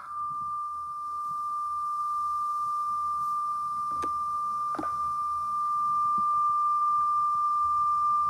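A long, unbroken electronic beep on one steady high tone, with a couple of faint clicks about halfway through.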